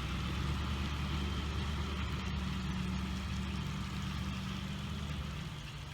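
An engine idling steadily with a low hum; the hum changes slightly about five and a half seconds in.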